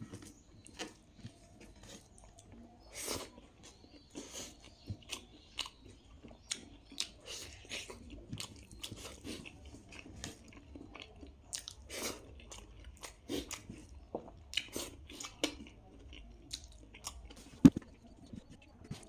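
Close-miked chewing and mouth sounds of someone eating spicy chicken, potato and rice: irregular wet smacks and small crunches, with one sharp, louder click near the end.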